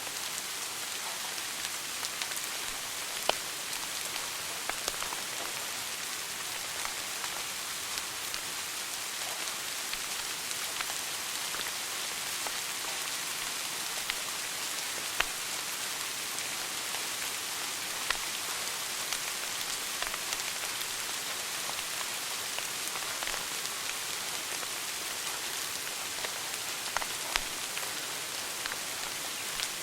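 Wood fire burning in a fireplace: a steady hiss with scattered sharp crackles and a few louder pops.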